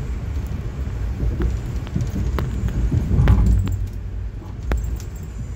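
Low, steady rumble of an Amtrak Northeast Regional train running, heard from inside the coach, with a handful of sharp clanks and clicks scattered through it.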